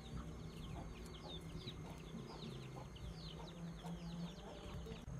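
Birds chirping: many short, high, falling chirps, several each second, over a faint steady high-pitched tone.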